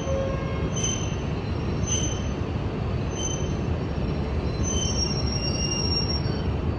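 E5 series Shinkansen train pulling in to stop, with a steady heavy rumble and short high-pitched squeals repeating about once a second.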